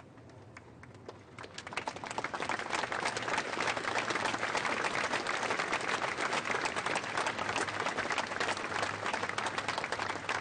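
Audience applauding, many hands clapping, building up over the first couple of seconds and then holding steady.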